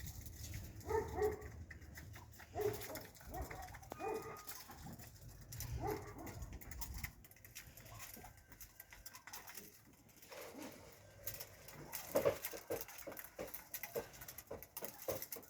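Pigeons cooing: short, low calls spaced a second or two apart, then a quicker run of calls near the end.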